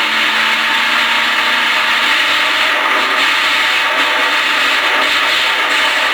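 Loud, distorted engine running steadily, a dense mechanical din without a break.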